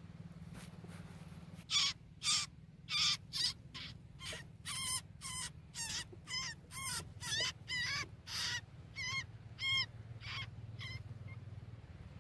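A bird calling over and over, about two loud calls a second for some nine seconds, starting about two seconds in. This is in a scene where a snake is eating birds.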